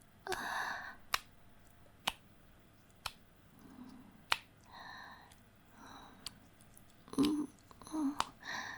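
A woman's breathy sighs and soft moans, with sharp wet mouth clicks scattered between them; the moans come near the end.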